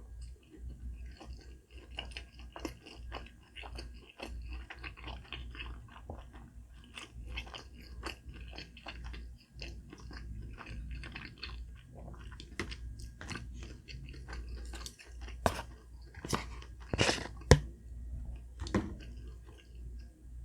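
Close-miked chewing of dim sum, a steady run of small wet mouth clicks and crunches. A few louder, sharper bites come in the last few seconds.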